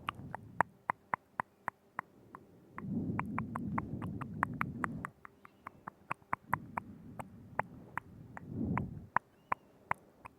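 Close-up ASMR mouth sounds: a string of sharp wet tongue and lip clicks, a few each second, with two longer stretches of soft, low wet mouth noise between them.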